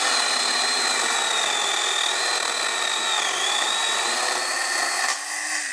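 Stihl battery-powered mini pruning chainsaw running with a steady high whine as it cuts through overgrown branches, its pitch dipping briefly about three seconds in, then winding down near the end.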